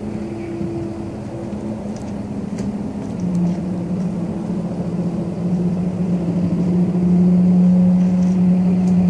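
A sustained low droning hum, one steady deep tone with a fainter higher one above it, over a rumbling background; it swells louder about three seconds in and again near the end. It is the kind of unexplained sound recorded as a 'strange sound from the sky'.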